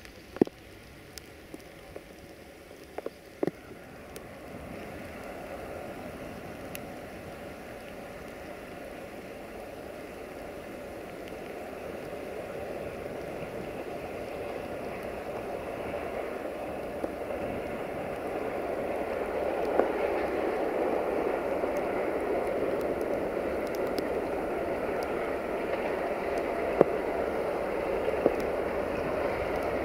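Steady rain, with a few sharp drops tapping close by in the first few seconds, while the rumble of an approaching freight train hauled by a 060-DA (LDE2100) Sulzer diesel-electric locomotive grows steadily louder.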